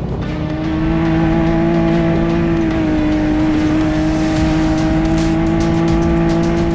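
Side-by-side UTV engine running at a steady, near-constant pitch while driving along a trail, dipping slightly in pitch about three seconds in. A few sharp clicks come near the end.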